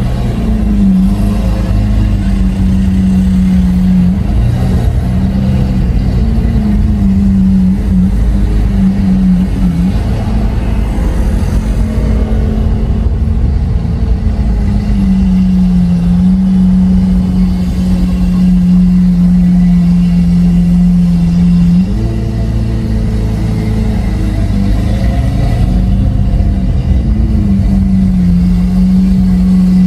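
Lamborghini Aventador SV's 6.5-litre V12 through a Capristo exhaust, running loud at a fairly steady engine speed while driving, with a few small shifts in pitch. About two-thirds of the way through, the note drops away and the level dips, then the steady note returns near the end.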